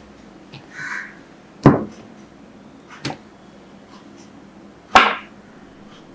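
Knife cutting through a block of glycerin soap: two sharp chops of the blade through the soap onto the board, about one and a half and five seconds in, with a lighter click between them.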